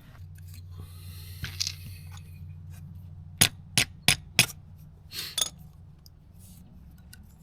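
Four sharp clicks and clinks in quick succession a little past the middle, with a short rustle just after them. These are metal tools or parts being handled during an oil filter change, heard over a steady low hum.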